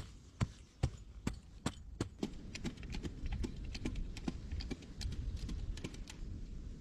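A series of sharp knocks and taps: about two or three a second at first, then quicker and lighter, over a low rumble.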